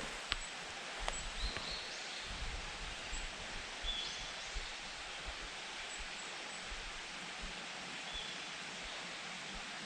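Quiet forest ambience with a steady hiss, and faint, short, high-pitched calls from small songbirds scattered through it. A couple of soft clicks come in the first second or so.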